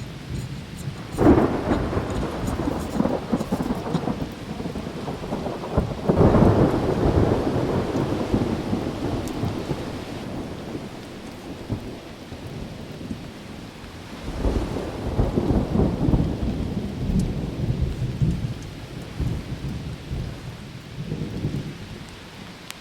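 Storm noise: a steady hiss with long, low rumbles that swell and fade, about a second in, around six seconds in, and again around fourteen seconds in.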